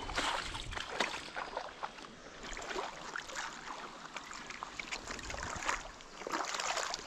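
Shallow creek water sloshing and splashing in short, irregular splashes, as from someone wading through it.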